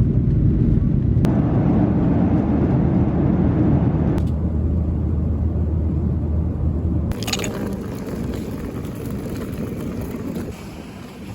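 Steady low rumble of vehicle engine and traffic noise, changing abruptly several times as the recording cuts between clips.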